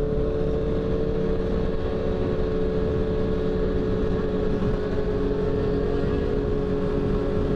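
Motorcycle engine running at steady revs while riding, its note holding one pitch, with a steady low rumble of wind and road noise.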